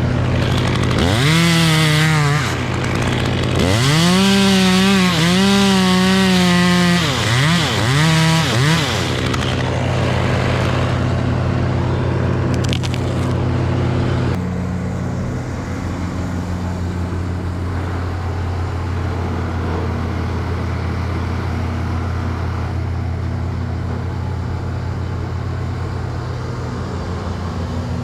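Chainsaw revving up and down several times in quick succession over the first nine seconds or so, typical of cutting. After that a steady low engine drone runs on to the end.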